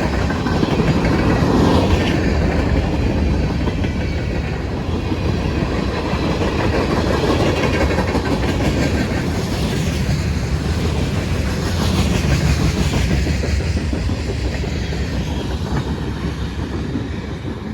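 A CSX freight train rolling past, its cars running over the rails in a steady, loud rumble.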